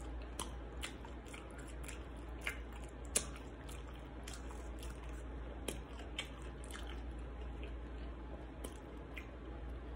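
Chewing a fried chicken sandwich close to the microphone, with irregular soft clicks of mouth and hand sounds scattered throughout.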